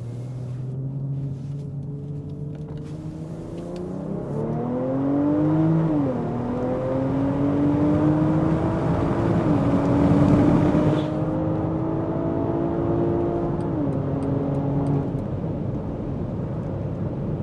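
BMW X5 45e's turbocharged 3.0-litre straight-six under a hard pull through the gears, breathing through an OPF-delete midpipe and a valved catback exhaust with the valves open, heard from inside the cabin. The engine note climbs and drops sharply at three upshifts, then settles near the end.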